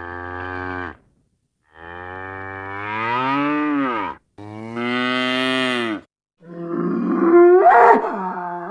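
Ox lowing: a call that ends about a second in, then two long moos, the first rising in pitch. Near the end comes a louder, harsher call with pitch sliding up and down.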